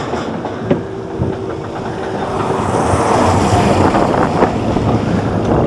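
Mine-train roller coaster cars rattling and clattering along the track at speed, getting louder from about two seconds in.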